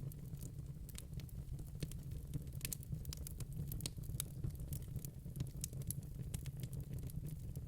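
Wood fire in a fireplace crackling: many quick, irregular pops and snaps over a steady low rumble.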